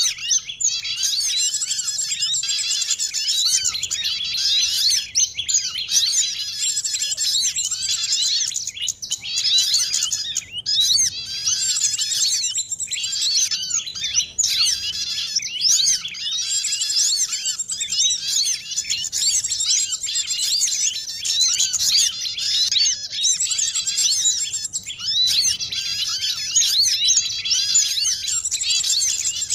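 A dense, unbroken chorus of many small songbirds chirping and trilling rapidly over one another. It is a lure recording meant to draw small birds down for trapping.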